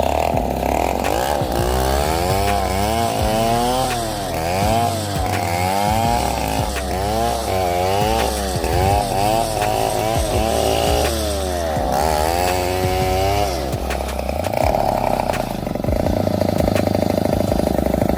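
Chainsaw engine running, its pitch rising and falling over and over as the throttle is worked, with steadier full-speed stretches at the start and near the end.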